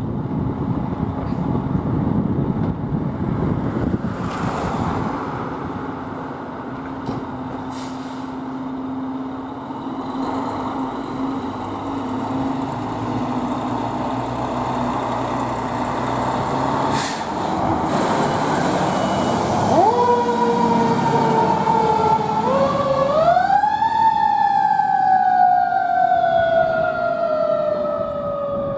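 Fire engine's engine running loudly. Then its siren starts, winds up to a high pitch, and slowly falls away, the long coasting wail of a mechanical siren.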